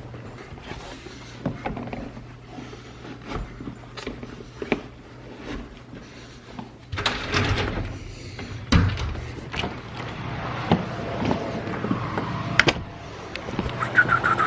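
A series of scattered knocks and clicks over a steady low hum, getting louder about halfway through.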